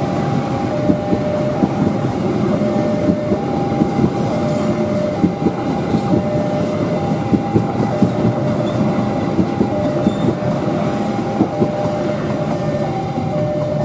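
KA Sawunggalih passenger train rolling through a level crossing, its wheels clacking over the rail joints with a steady rumble, while the crossing's warning alarm keeps alternating between two tones.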